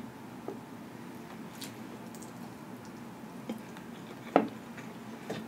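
A person eating: soft chewing with a few short mouth clicks and smacks, the clearest about four and a half seconds in.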